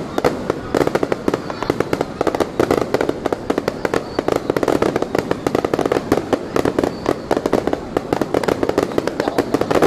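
Fireworks display: a continuous, dense run of bangs and crackles, many per second, with no pause.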